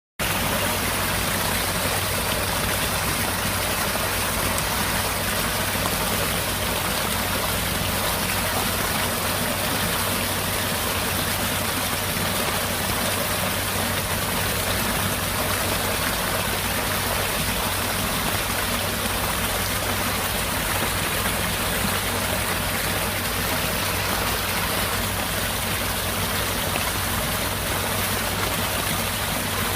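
Rain falling steadily inside a cave: an even, unbroken rush of water with no single drops standing out.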